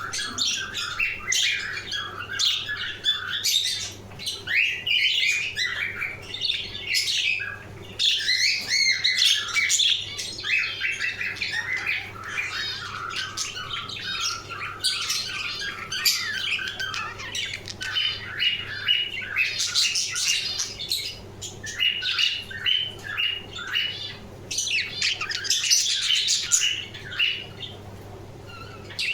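Budgerigars chattering continuously, a busy run of overlapping chirps, warbles and squawks that grows louder in several stretches, over a faint low steady hum.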